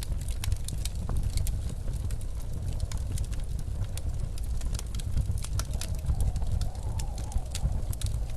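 Wood fire crackling with scattered sharp pops over the steady low rumble of blizzard wind. In the second half a faint wind howl rises and falls.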